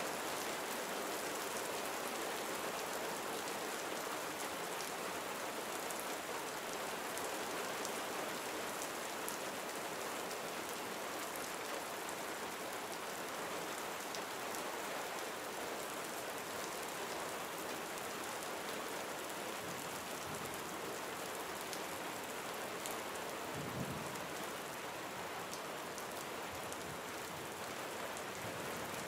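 Steady gentle rain falling on surfaces, with fine scattered drop ticks. A brief low thump comes about two-thirds of the way through.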